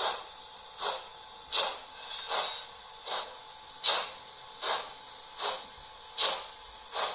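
Sound-decoder steam exhaust beats of a class 45 steam locomotive model, played through the model's own small loudspeaker. The locomotive is chuffing at a slow, even pace, a little over one chuff a second, as when running slowly.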